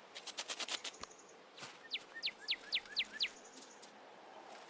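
A bird calling: a series of six quick whistled notes, each sliding sharply down in pitch. Just before, a quick run of short soft clicks.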